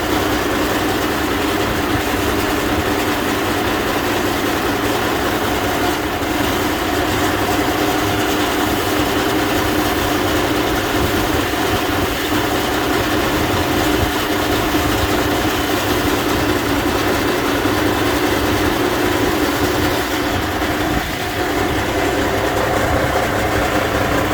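Mercedes-Benz Actros 1831 4x4 truck's diesel engine idling steadily.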